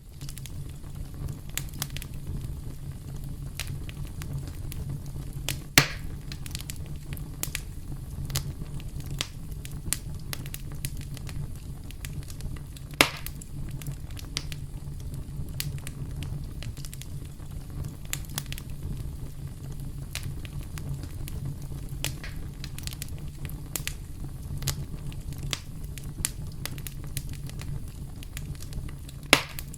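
Crackling campfire: a steady low rumble of burning wood with frequent small pops and snaps, and three louder sharp pops spread through.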